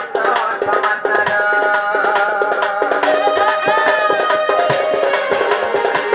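Folk music with fast hand-drum strokes under a held, wavering melody line.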